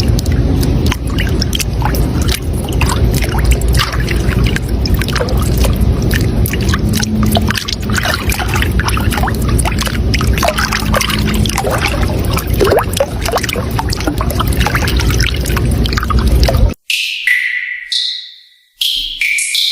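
Running water splashing and trickling steadily, as from a stream or small cascade. It cuts off suddenly near the end, and a few short ringing notes follow.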